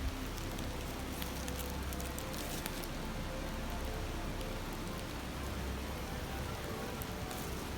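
Steady babbling of a shallow stream, with the scattered light crackle of a wood campfire.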